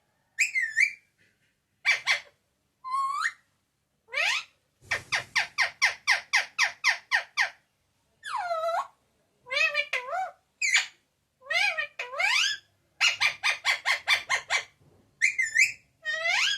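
Talking parrot calling: short, high whistled calls that glide up and down, and twice a fast run of repeated notes at about six a second.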